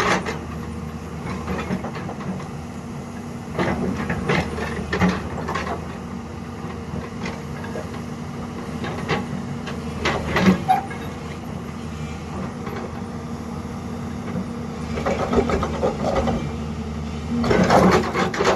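Excavator's diesel engine running steadily, with bursts of clanks and knocks from the machine working, the loudest about ten seconds in and near the end.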